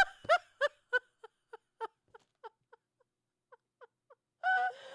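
A person laughing in short, high-pitched squeaks, about three a second, trailing off breathlessly and fading to silence over about four seconds.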